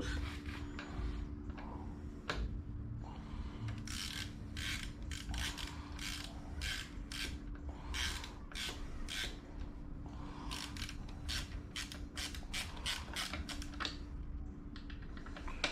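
Ratchet tool clicking in short quick runs as a small screw is tightened down.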